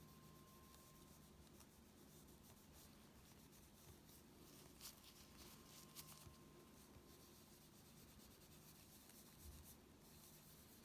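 Near silence with faint scratching and a few light clicks, as of small tools and parts being handled on a Nintendo Switch's internals.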